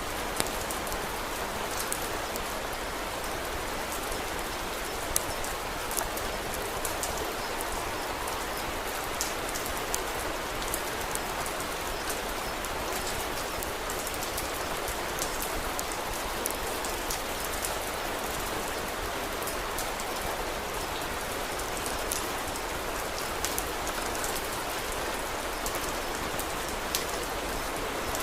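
Steady rain falling, with scattered sharp pops and crackles from a wood fire, a few louder than the rest.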